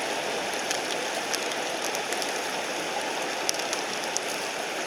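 Steady rushing of a mountain stream, with a few faint, sharp crackles from a campfire scattered through it.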